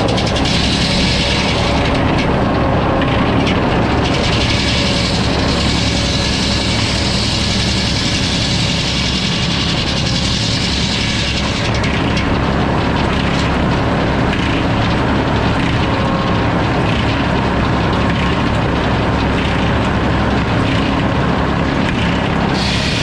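Sawmill running steadily, its saw cutting through a hardwood log over a constant machine drone; the higher cutting noise thins out, then fills back in about halfway through.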